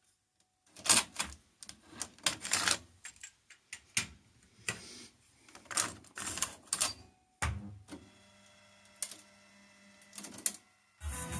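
Irregular mechanical clicks and clacks from a Pioneer KEH-M7400RDS car cassette radio being operated, its buttons and auto-reverse tape mechanism clicking while the music is stopped. A faint steady hum follows, before the music comes back near the end.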